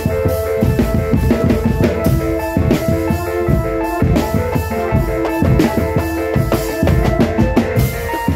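Marching drum band playing: fast bass drum and snare strokes with a held melody over them.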